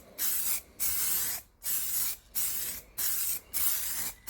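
Hobby sealer being sprayed onto a glued-up bird bath in a run of short hissing bursts, about six of them, one roughly every two-thirds of a second.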